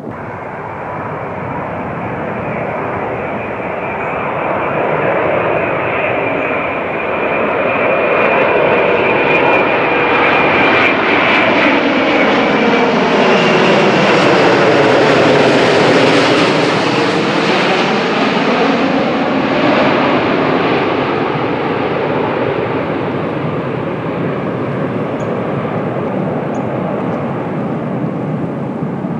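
Jet airliner's engines passing close by, the noise building to a peak about halfway through and then slowly fading, with a high whine in the first half.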